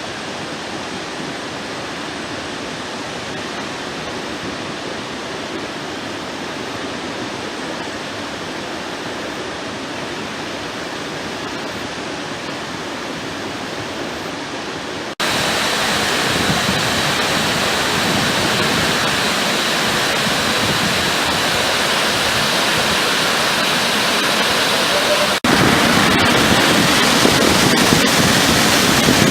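Steady rush of a waterfall's falling water, even and unbroken. It jumps abruptly louder twice, about halfway through and again near the end.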